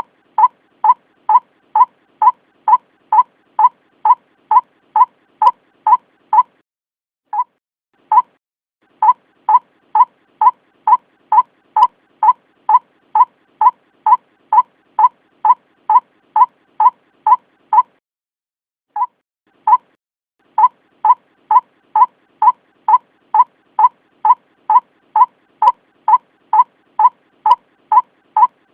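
White-breasted waterhen lure call played as a recording: a steady series of short, identical 'kwak' notes, about two and a half a second, in long runs broken by a brief pause about seven seconds in and a longer one about two-thirds of the way through.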